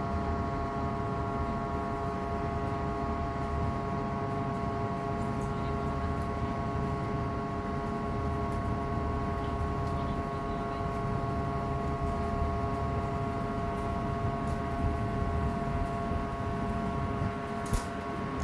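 Steady machinery drone: a low rumble under several constant hum tones that never change pitch, with one sharp click near the end.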